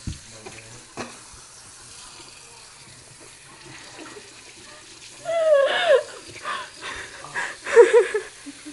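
Water running steadily, with two sharp knocks in the first second. About five seconds in, a person lets out loud wordless cries that slide up and down in pitch for about three seconds, a strong reaction to the taste of the dog frosting.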